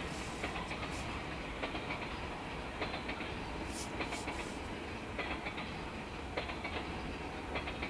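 Freight train of tank cars rolling slowly past: a steady rumble with clusters of clicks about every second as the wheels cross rail joints.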